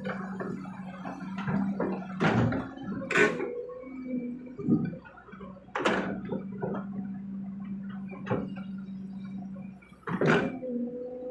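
Kobelco SK200 excavator at work, its diesel engine running with a steady hum, broken by four loud knocks and clanks, typical of the bucket and its load striking while the dump truck is loaded.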